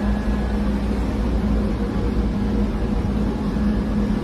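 Roomba robot vacuum running with a steady whir and a low hum.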